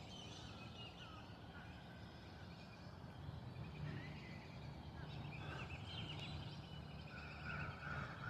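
Birds calling: many short, overlapping calls, thicker in the second half, over a low steady rumble.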